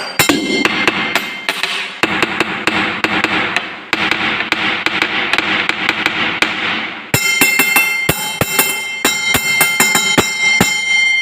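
Drinking glasses struck rapidly in a rhythmic run of sharp taps. From about seven seconds in, clear steady ringing tones from the glasses sound under the strikes.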